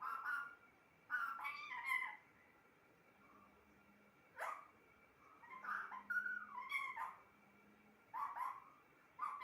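Pet parrot giving a series of short squawking calls, about six bursts with pauses between them, one sharp short one in the middle.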